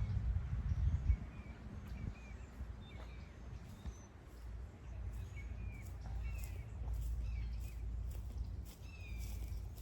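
Birds chirping again and again with short falling calls, over a low rumble that is loudest in the first second.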